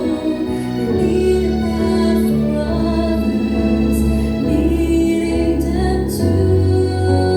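A woman singing a gospel song over instrumental accompaniment, holding long notes with vibrato above a bass line.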